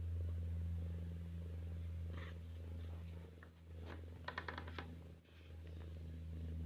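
Domestic cat purring steadily, dipping briefly a little past five seconds in. A short run of quick high chirps comes a little past four seconds in.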